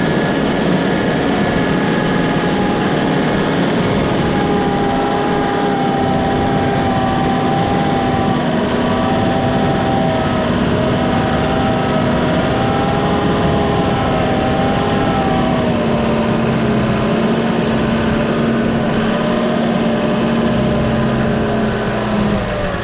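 Two-stroke chainsaw running at high revs, its pitch sagging a little partway through as it works, then falling away near the end.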